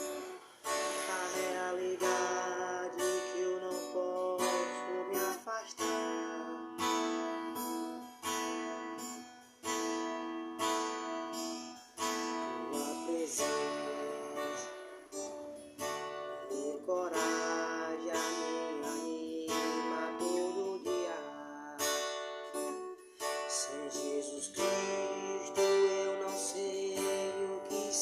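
Acoustic guitar strummed in a steady rhythm, playing the chords of a gospel worship song.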